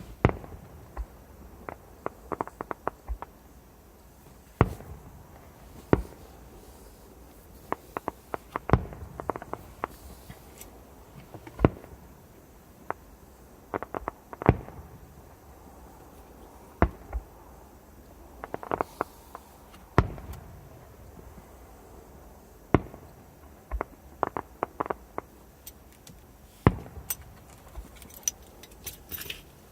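Fireworks going off: sharp bangs at irregular intervals, a few seconds apart, some coming in quick clusters, with a burst of crackling near the end.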